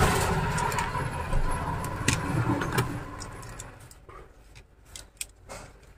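Handling noise from dismantling a Bluetooth speaker box: plastic parts and wires rustling and clattering with a few sharp clicks. It dies away after about three seconds, leaving only faint scattered clicks.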